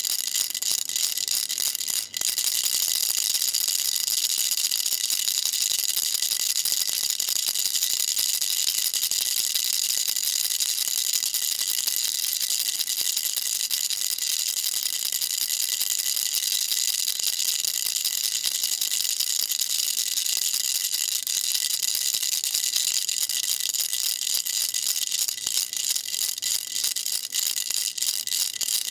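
Baby rattle shaken continuously: a dense, fast, high rattling, with a brief break about two seconds in.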